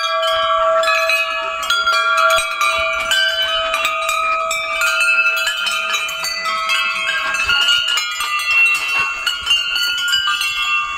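Many overlapping bell-like ringing tones whose pitches step from one to the next, over a lower held tone that fades about seven seconds in.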